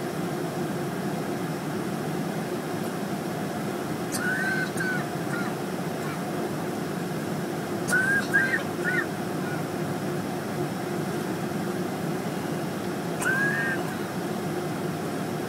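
Steady jet engine noise at an airport, with short bird calls in three brief bursts, about four, eight and thirteen seconds in.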